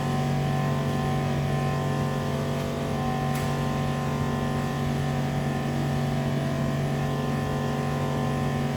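Full-servo CNC router's axis servo motors driving the machine along X and Y during homing: a steady motor hum with several held tones. There is one brief tick about three and a half seconds in.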